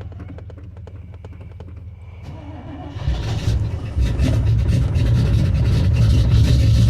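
OBS pickup truck engine running just after a cold start in sub-zero cold, idling low with a fine regular ticking. About three seconds in it comes up louder and fuller, with a further rise about a second later.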